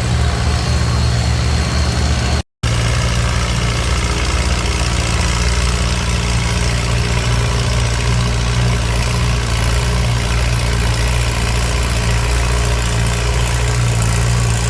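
Antique farm tractor engine running steadily at an even speed, with no revving up or down. The audio cuts out completely for a moment about two and a half seconds in.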